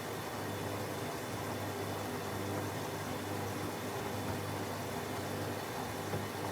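Techwood WB 91042I front-loading washing machine running through its wash programme: a steady low hum with an even hiss, with no change in pace.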